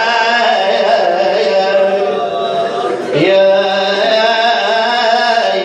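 A man's voice chanting a long, drawn-out melismatic phrase of an Iraqi Shia lament (nai), the pitch bending and wavering. There is a short break and a fresh swoop about three seconds in.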